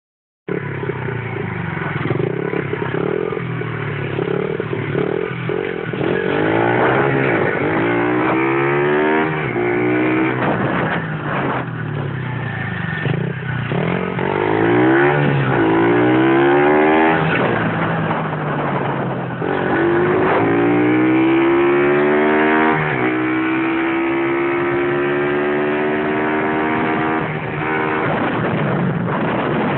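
A 70cc pit bike engine run wide open, its pitch climbing in each gear and dropping back at each shift, several times over. In the second half it holds a high, fairly steady pitch.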